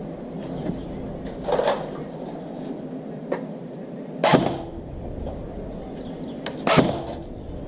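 Airsoft gun shots: three sharp cracks about two and a half seconds apart, the second and third the loudest, with a few fainter clicks between them.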